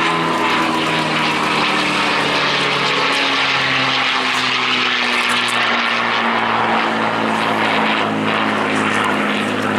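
P-51D Mustang's Packard-built Merlin V-12 engine and propeller in flight: a steady drone whose pitch falls slowly.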